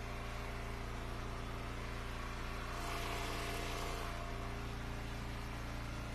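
Gas engine of a wood splitter running steadily, with a slight rise in level and hiss about three seconds in that lasts about a second.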